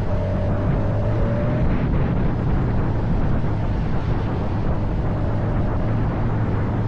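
Motorcycle engine running at a steady pace, with wind noise over it.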